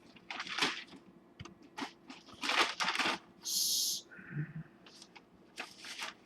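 Scattered soft clicks and rustles of handling noise, with a short hiss about three and a half seconds in.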